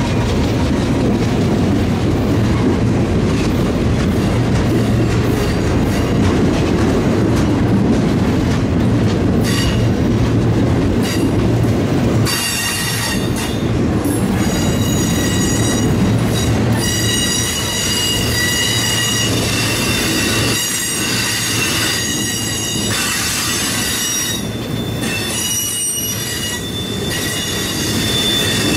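Freight train rolling past: a low diesel locomotive drone for the first dozen seconds, then the cars pass with high-pitched wheel squeal, several tones at once, setting in about twelve seconds in and carrying on.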